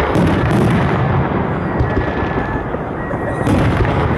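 Fireworks salute: shells bursting in quick succession, a continuous loud rumble of bangs with sharper reports about half a second in and again near the end.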